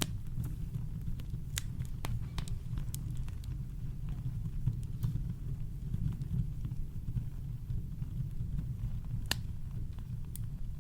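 Campfire crackling: scattered sharp pops and snaps over a steady, deep low rumble of brown noise, with one louder pop about nine seconds in.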